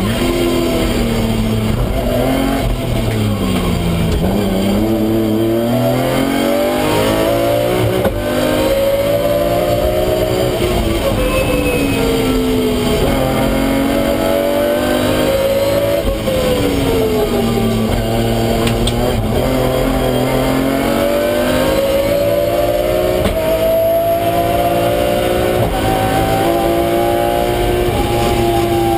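BMW M3 competition car's engine heard from inside the stripped, caged cockpit at racing pace. The revs climb and fall again several times as the car accelerates and slows along the course.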